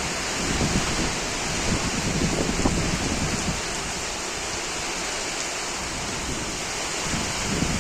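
Rain pouring down steadily, a dense even hiss.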